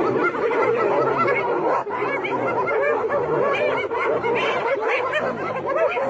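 A dense chorus of many animals calling at once: short, overlapping rising-and-falling calls with no let-up.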